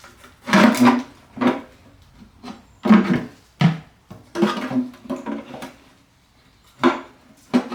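Irregular metallic clanks and knocks, about seven in all, as tools work at a stuck oil pan on an engine, with the pan not coming free.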